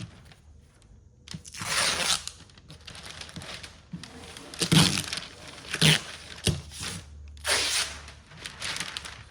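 Masking tape being pulled off the roll and torn, with crinkling as it is laid on and pressed down for backwards masking. There are two longer pulls and a few sharp snaps in between.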